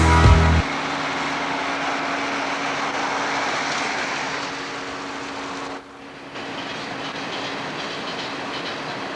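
A train running on rails, with a steady rumble and a constant low hum. It drops away briefly about six seconds in.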